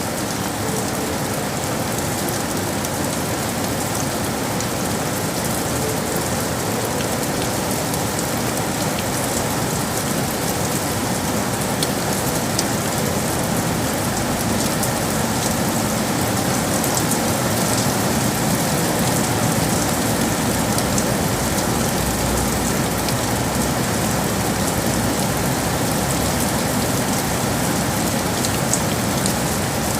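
Steady rain falling on hard city surfaces, a dense even hiss with scattered drop ticks. A low rumble builds in under the rain from about halfway through.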